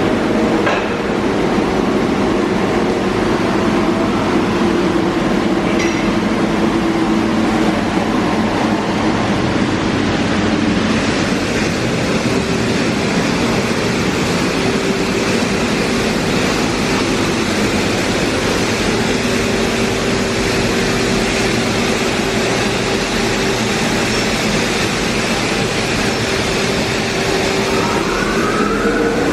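Belanger car wash tunnel equipment running: a steady loud wash of spray and machinery with a constant motor hum, a couple of sharp ticks early on, and rising whines near the end.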